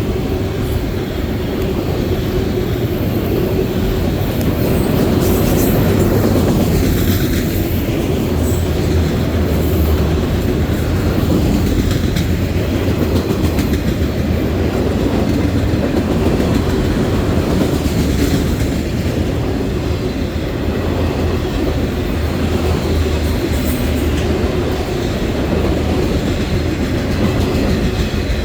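Norfolk Southern freight train rolling past, a steady rumble of wheels on rail with clicking over the rail joints.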